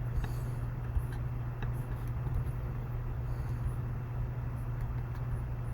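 Steady low hum of computer or recording noise, with a few faint mouse clicks.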